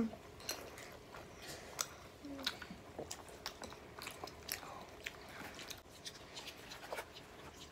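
Close mouth sounds of a child chewing and biting a mouthful of fried meatball. Scattered sharp clicks come from wooden chopsticks against a plastic food container.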